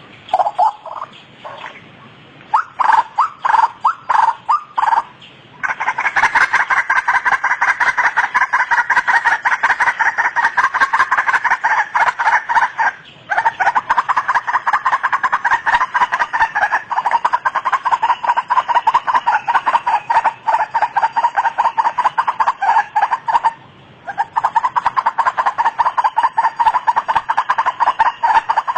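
White-breasted waterhen (ruak-ruak) calling: a rapid string of loud, harsh repeated notes. It starts in a few short bouts, then runs on in long unbroken strings, with brief pauses about thirteen seconds in and near the end.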